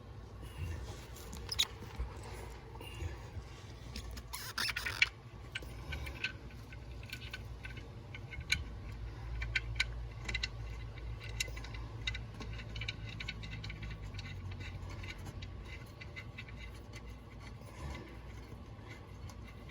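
Quiet handling noises of an ATV's oil drain plug being cleaned and threaded back in by hand: scattered small clicks and light scrapes, with a brief louder scraping rustle about four seconds in, over a steady low hum.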